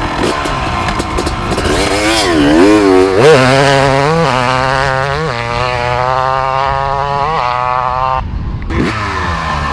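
Motocross bike engine revving hard, its pitch swinging up and down and stepping between gears. It then holds steady at high revs before cutting off abruptly about eight seconds in.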